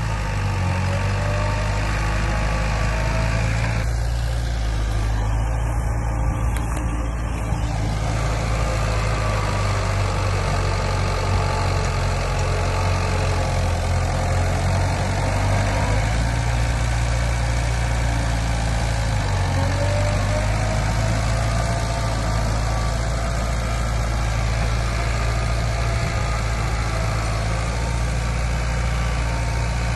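Diesel engine of heavy earthmoving equipment running steadily, a deep, even drone with slight shifts in pitch.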